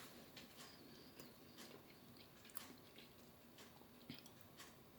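Faint chewing and mouth sounds of a person eating, with scattered soft clicks about once a second over a quiet background.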